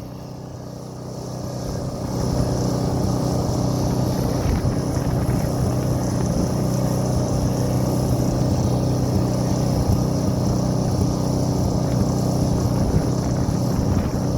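Pressure washer engine running steadily, with a steady high hiss above it; the sound builds over the first couple of seconds, then holds level.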